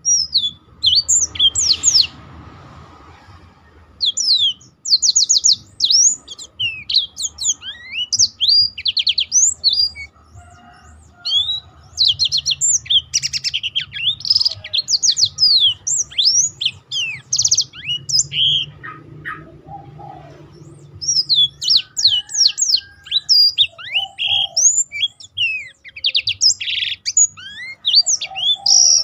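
Blackthroat (black-throated canary) singing a fast, varied song of high, rapid sweeping and trilled notes, in long bursts with brief pauses.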